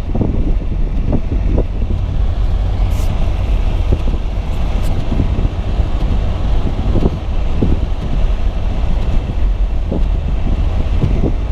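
Car driving on a snow-covered road, heard from inside the cabin: a steady low rumble of engine and tyres, with scattered brief knocks.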